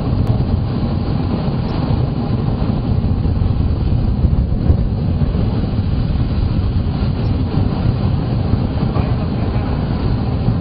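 Microwave plasma torch running: a loud, steady, low rumbling hum with a rushing noise over it.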